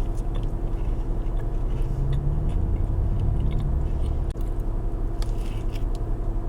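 Close-up bites and chewing of a Crumbl cookie, with short crunchy clicks that cluster near the end, over a steady low rumble.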